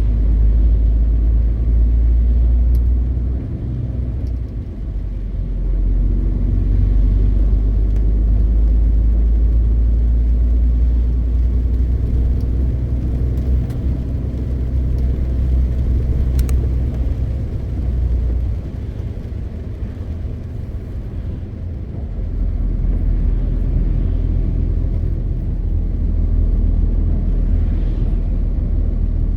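MAN TGX 520 truck's six-cylinder diesel engine running under way with road noise, a deep steady rumble that eases off briefly about four seconds in and again for a few seconds around the twenty-second mark.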